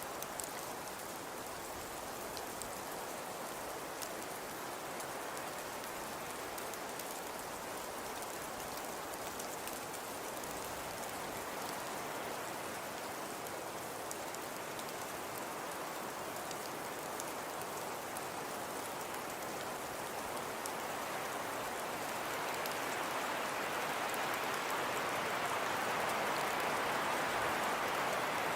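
Fireplace crackling: a steady hiss of burning wood sprinkled with small sharp crackles, growing somewhat louder in the last third.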